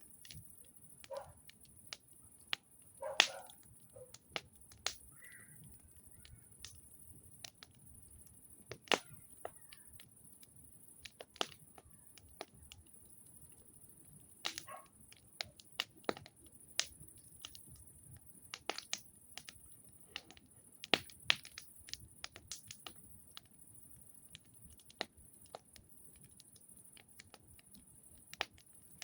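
Wood campfire crackling: irregular sharp pops and snaps at uneven intervals, a few much louder than the rest.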